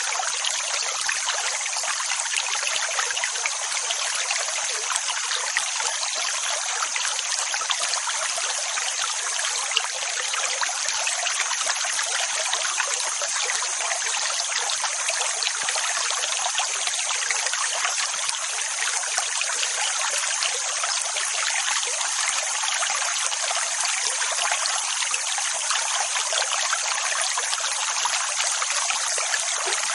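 Steady rushing, trickling water, an even hiss with no low rumble and no rise and fall of separate waves.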